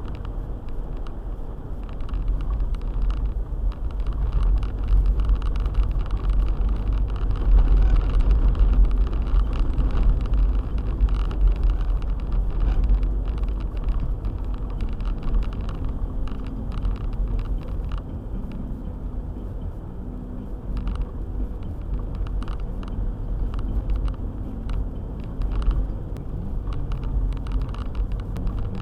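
A car being driven on a snowy road: a steady low rumble of engine and road noise, with many light ticks scattered through it.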